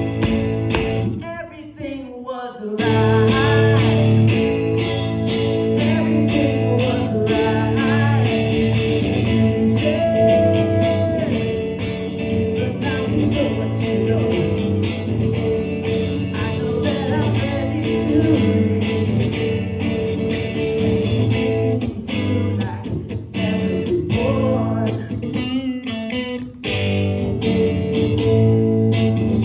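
Rock band playing an instrumental passage led by guitar, with a short break in the sound about two seconds in and another near the end.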